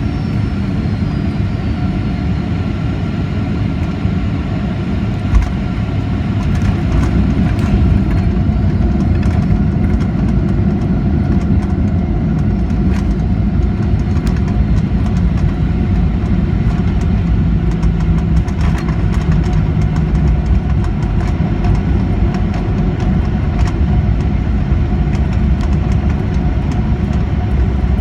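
Boeing 737-800 cabin during landing: a steady roar of engines and airflow, a single thump of the main gear touching down about five seconds in, then louder engine noise and rumble from the wheels on the runway as the jet rolls out, with cabin fittings rattling.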